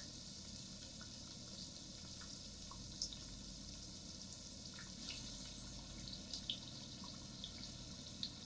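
Food sizzling in a pan: a steady faint hiss broken by scattered small pops and crackles.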